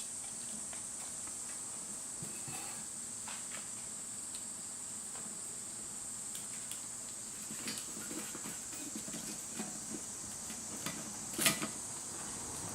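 Insects chirring steadily at a high pitch, with scattered light clicks and clinks that come more often in the second half; the loudest click is near the end.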